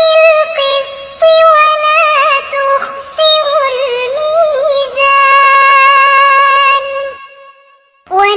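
A young girl's voice reciting the Quran in a melodic, ornamented chant, ending a phrase on a long held note that stops about seven seconds in, followed by a short pause.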